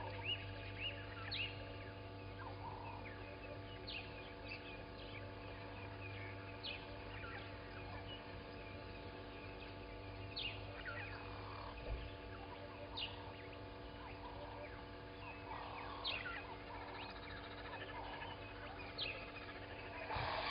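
Several wild birds calling in the morning: scattered short, high chirps and quick falling whistles, over a steady low electrical hum.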